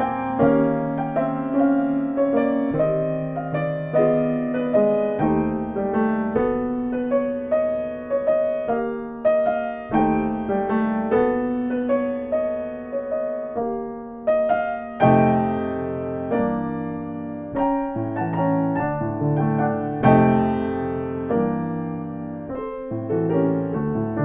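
Piano playing a slow piece, single notes and chords struck and left to ring, the texture growing fuller about fifteen seconds in.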